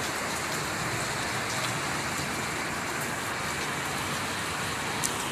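Steady rain falling, an even hiss with scattered drop ticks and one sharper tick near the end.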